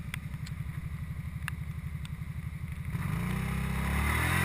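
ATV engine idling with an even chugging beat, then throttled up about three seconds in, growing louder and higher.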